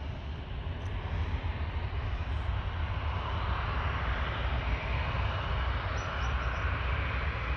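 CFM56 jet engines of a Boeing 737-800 taxiing: a steady rushing hum over a low rumble, growing a little louder after about three seconds.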